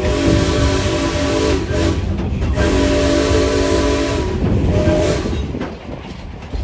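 Steam locomotive's shop-built six-chime whistle blowing a chord in two long blasts and a short one, over steam hiss and the rumble of the running train.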